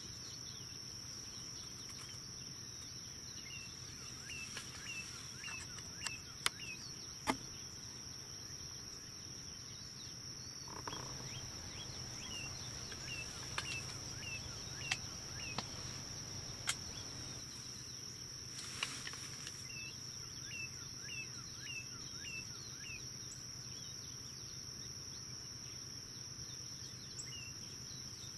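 Quiet outdoor ambience: a small bird gives a run of five or six quick chirps, repeated several times, over a steady high-pitched tone, with a few faint clicks.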